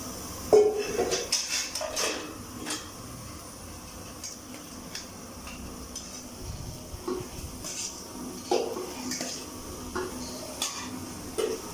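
A metal spoon or ladle clinking and scraping against a cooking pan while the fried rice is stirred, in irregular knocks with a burst of clatter in the first two seconds.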